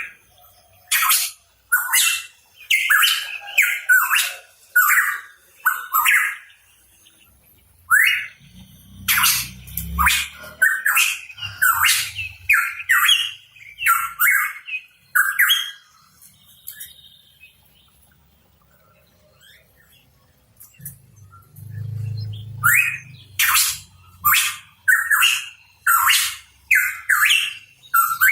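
A pitohui calling in quick runs of short, sharp, upward-sweeping notes, about two a second. It falls quiet for several seconds past the middle, then starts again.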